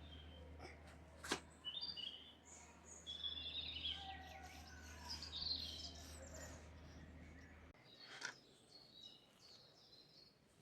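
Faint outdoor birdsong: several small birds chirping and twittering, with a couple of sharp clicks and a low hum that stops about three-quarters of the way through.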